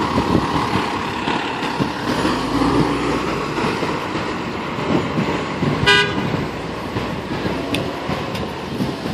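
Fire engine running at low speed amid street traffic noise, with one short horn toot about six seconds in.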